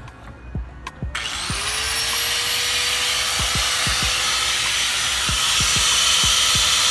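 A power tool starts about a second in, spinning up with a rising whine, then runs steadily with a loud hissing noise. Background music with a steady kick-drum beat plays underneath.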